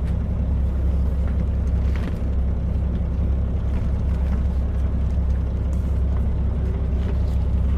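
KiHa 40 diesel railcar heard from inside the cabin: a steady low rumble of the diesel engine and running gear, with a few faint clicks and rattles.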